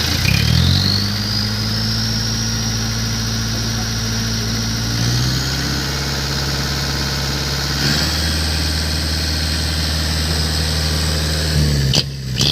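Diesel truck engine breathing through a 'cung' exhaust pipe of the Takalar style, revved up just after the start and held at a steady raised speed. The note steps slightly a couple of times, then falls back toward idle near the end.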